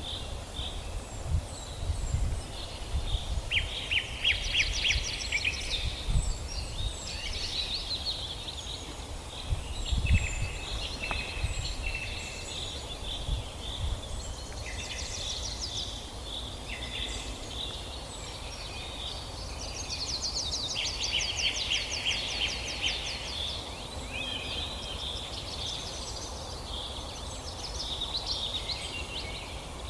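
Several songbirds in a forest chorus, with overlapping chirps, short trills and fast runs of repeated high notes from different birds. A low rumble with occasional soft thumps runs underneath.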